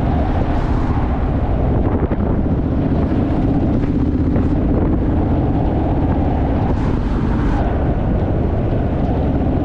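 Honda Rebel parallel-twin motorcycle cruising, its engine drone steady under heavy wind rush on the microphone.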